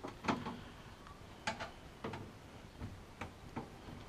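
A few faint, separate clicks and taps, spaced irregularly: a screwdriver and hands working the captive thumbscrews of a PC case panel.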